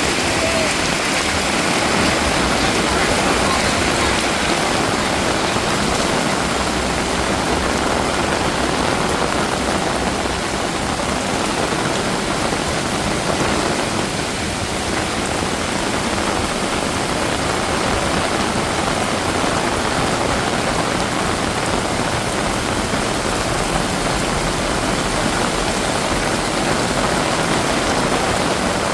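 Heavy rain pouring steadily, a dense even hiss of rain falling on surfaces.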